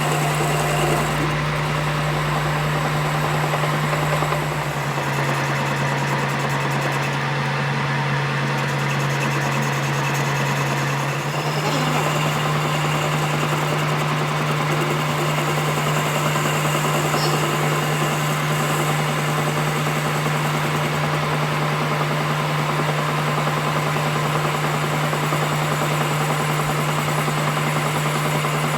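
Workshop machine running with a steady hum, its pitch stepping slightly about five seconds in and again near twelve seconds.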